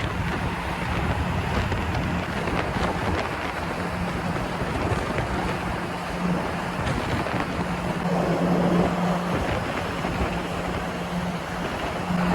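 A large car ferry under way, with a steady low engine drone under a constant rush of wind and water noise.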